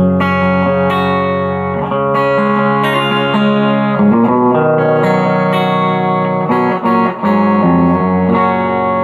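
M-Musi Virgo Fusion electric guitar with its humbuckers coil-split, played through a Quilter Superblock US amp: a run of ringing chords that change every second or so.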